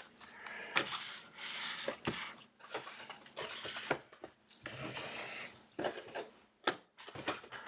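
Trading card hobby boxes and their packaging being handled and slid around on a table: a series of short rubbing, scraping swishes with a few sharp clicks and taps in between.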